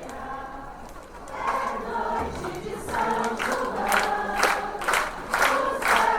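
A group of people singing together, with a steady beat of sharp strikes about twice a second coming in after the first second and the singing growing louder.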